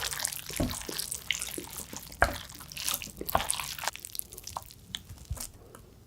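Wet, clicking mouth sounds of a person chewing ramen noodles close to the microphone: irregular sharp smacks and squelches, fewer toward the end.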